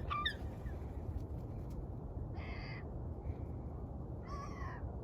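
Gulls calling: quick cries at the very start, then two harsh calls of about half a second each, a couple of seconds apart, over a steady low rumble.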